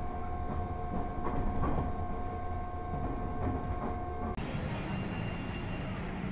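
Running noise inside a moving train: a steady low rumble with a steady whine over it. About four seconds in it cuts abruptly to outdoor street noise.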